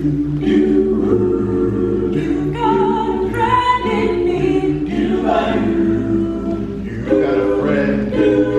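A cappella vocal ensemble singing in close harmony, holding chords that change every second or so, with no instruments.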